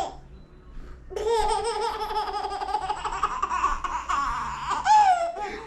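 A baby laughing: after a brief pause, one long, high-pitched, wavering peal of laughter that ends in a falling squeal near the end.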